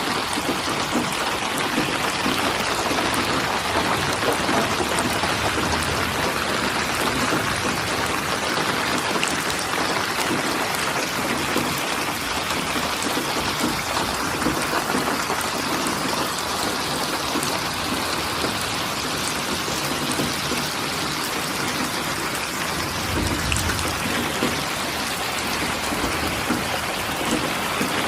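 Steady rain falling, an even hiss of drops, with a brief low rumble near the end.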